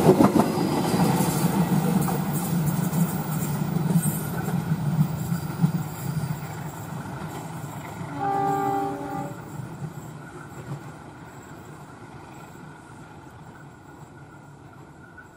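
Indonesian economy-class passenger train rolling past, its wheels clicking over the rail joints with a rumble that fades steadily as it moves away. About eight seconds in, the train horn sounds once for about a second.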